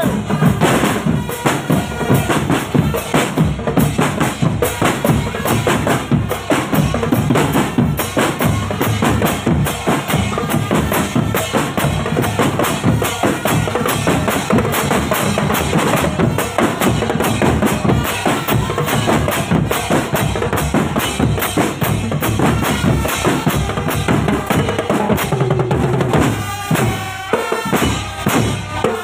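Marching drum band playing a fast, steady rhythm on bass drums and snare drums. About 26 seconds in the drumming thins and pitched notes come through more clearly.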